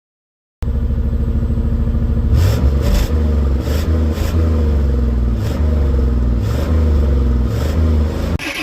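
Chevrolet K5 Blazer engine running loud through a straight-piped exhaust with the muffler and catalytic converter deleted, blipped a few times. It cuts in about half a second in.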